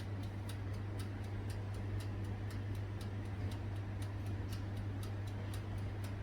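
Mechanical timer of an electric oven ticking steadily, several ticks a second, over a low steady hum from the oven running in rotisserie mode.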